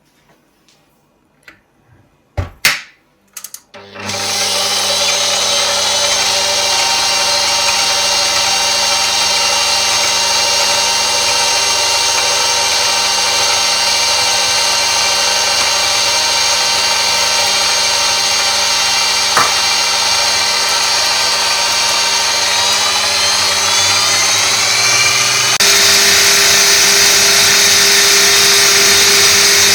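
Electric kitchen mixer: a few clicks, then the motor starts and runs steadily, stepping up to a higher speed about three quarters of the way through.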